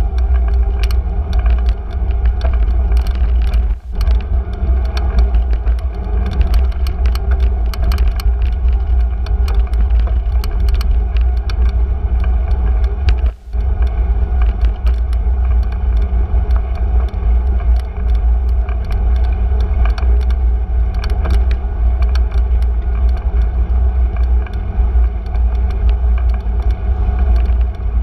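Riding a bicycle through city streets: steady wind rumble on the microphone and rolling road noise, with many small clicks and rattles. The sound dips briefly twice, about four seconds in and again around thirteen seconds.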